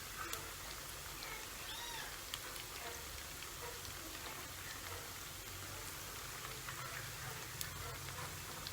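Chicken thighs and wings frying in hot oil in a pan, sizzling with a steady patter of small crackles.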